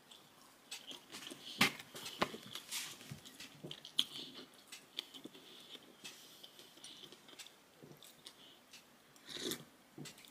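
Close-up chewing and mouth sounds of a person eating rice and fried dried fish with her hands: soft smacks and small clicks, with one sharper click about one and a half seconds in and a short louder sound near the end.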